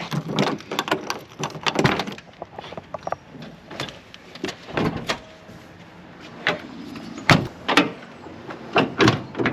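A string of irregular sharp knocks and clicks of things being handled, with the two loudest knocks close together about seven and a half seconds in.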